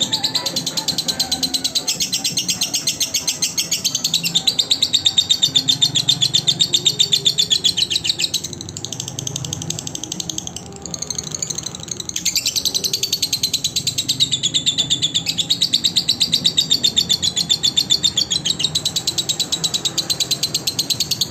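Lovebird singing in a rapid, unbroken string of high chirps, dipping quieter for a few seconds midway, then resuming at full strength.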